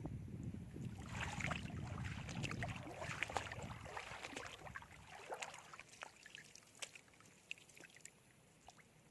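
Shallow seawater splashing and sloshing, with a low rumble of wind on the microphone over the first few seconds. After about five seconds it settles to a quieter wash with scattered small splashes and clicks.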